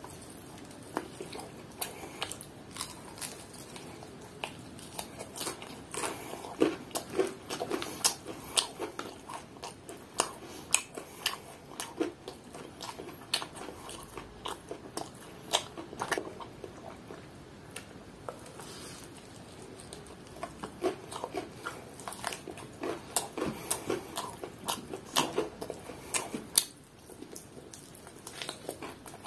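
A person biting and chewing crispy fried chicken: steady chewing with many short crunches and crackles from the fried coating, pausing briefly near the end.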